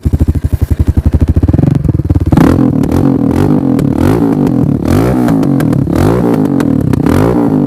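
Motorcycle engine chugging at low revs with distinct, quickening firing pulses, then from about two seconds in being revved, its pitch rising and falling over and over.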